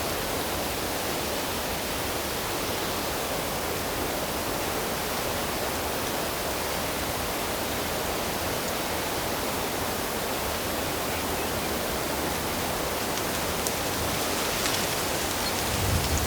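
Steady rush of flowing water, an even hiss across all pitches, with a brief low thump at the very end.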